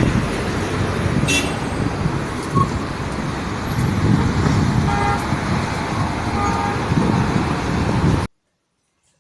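Steady road traffic noise with short vehicle horn toots about 5 and 6.5 seconds in. The sound cuts off abruptly a little after 8 seconds.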